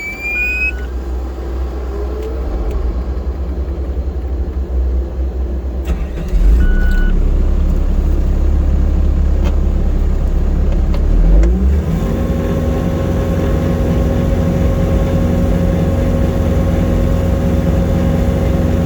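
A road vehicle's engine and road noise as it pulls away and picks up speed. It settles into a steady drone after about twelve seconds. There is a short beep near the start and another about seven seconds in.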